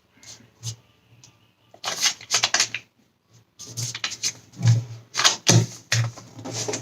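A square of origami paper being folded and creased by hand: crinkling and crackling rustles in two spells, a short one about 2 s in and a longer one from about halfway on.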